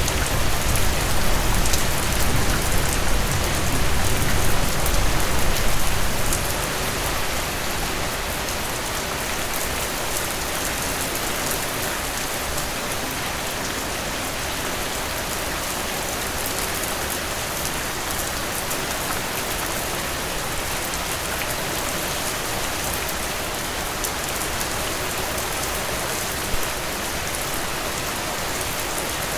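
Heavy rain pouring down, a dense steady hiss of drops on surfaces. A low rumble underneath dies away about six seconds in.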